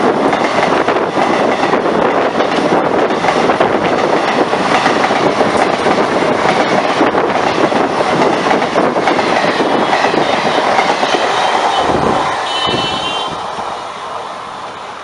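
Express train passenger coaches rushing past close by at speed, wheels clattering on the rails in a loud, steady rush. About twelve seconds in the sound drops away to much quieter background noise.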